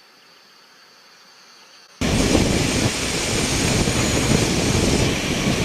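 A faint hush for about two seconds, then the loud, steady rushing noise of the Colomban CriCri Jet's small jet engines cuts in abruptly.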